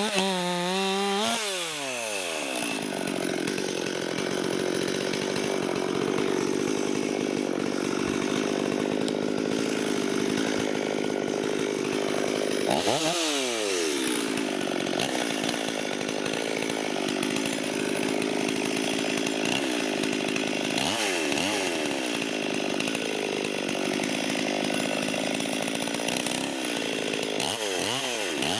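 Ported Stihl 440/460 hybrid chainsaw (a 440 with a 460 top end, 20-inch bar and full-comp chain) cutting wood. The engine revs up and its pitch drops as the chain takes the load, then it holds steady through a long cut. About halfway through it briefly revs free and drops back into the cut, and near the end it revs out at high speed.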